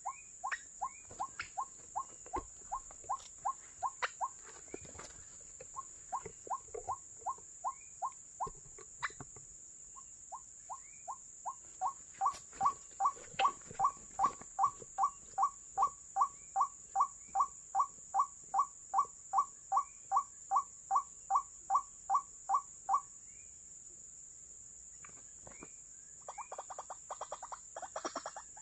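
White-breasted waterhen calling, a repeated short note about three times a second in three runs, the last and loudest lasting about eleven seconds before it stops. A different rapid calling starts near the end.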